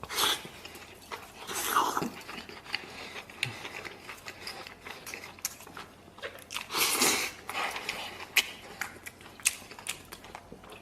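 Close-miked eating: a person biting and chewing a piece of meat, with many small wet clicks from the mouth and a few louder stretches, one near the start, one around two seconds in and one around seven seconds in.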